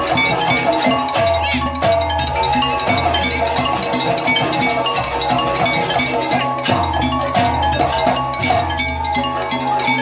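Jaranan Banyuwangi gamelan music: struck metal mallet instruments ringing a steady melody over drumming, with deep low notes recurring every second or two.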